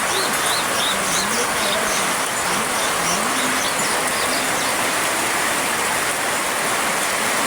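Steady rush of heavily flowing monsoon water, a rain-swollen stream or runoff. Small birds chirp several times in the first half, and a faint low call rises and falls.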